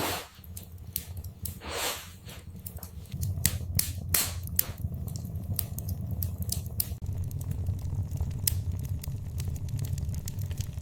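Wood fire in a fireplace crackling: irregular sharp pops and snaps over a steady low sound of the burning.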